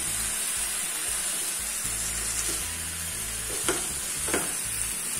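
Thick onion-tomato masala with paneer sizzling in a nonstick pan while a wooden spatula stirs and scrapes through it, with two sharper scrapes near the end. The masala is being fried down on low flame until the oil separates.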